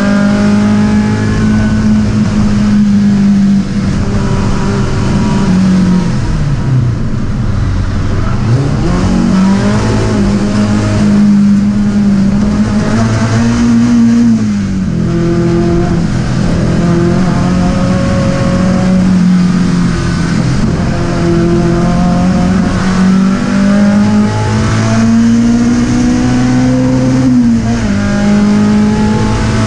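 Skoda 130RS's rear-mounted four-cylinder engine at high revs, heard from inside the cabin. The revs fall away about six seconds in, climb back, and drop sharply twice more, near the middle and near the end, as the car is driven hard around the circuit.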